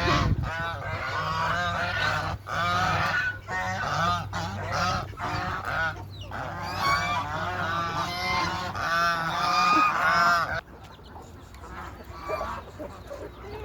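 A flock of geese honking, many loud calls overlapping. The calling drops off suddenly about ten and a half seconds in, leaving a few quieter calls.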